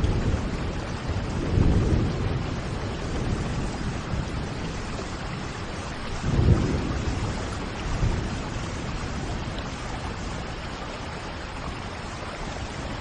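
Steady rain falling, with low rumbles of thunder swelling about two seconds in and again a little past six seconds.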